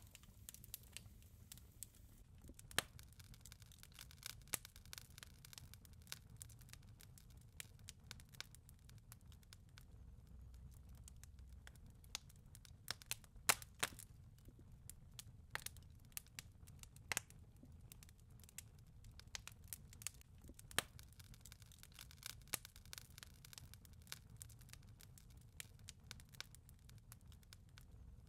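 Faint fireplace crackling: irregular sharp pops and snaps of burning wood over a low steady rumble.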